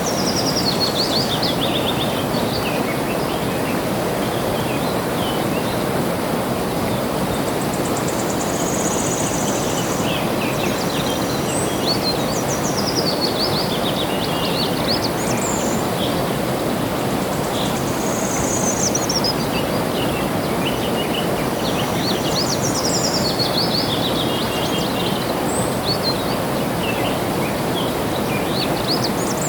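Water flowing steadily, with small birds singing over it: repeated falling, chirping trills and a few high buzzy notes every few seconds.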